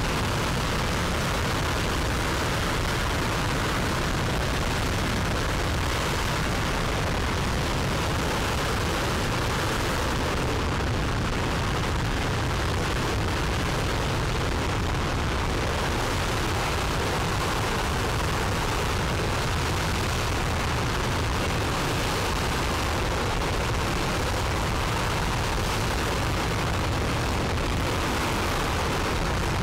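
Aerojet Rocketdyne RS-25 liquid-hydrogen/liquid-oxygen rocket engine, the former Space Shuttle main engine, firing continuously on a static test stand: a loud, steady, unbroken rushing noise with no change in level.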